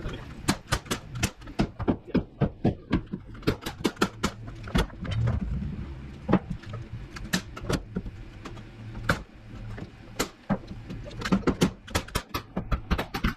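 Nailing down plywood subfloor: a rapid, irregular run of sharp knocks, several a second, with a brief low rumble about five seconds in.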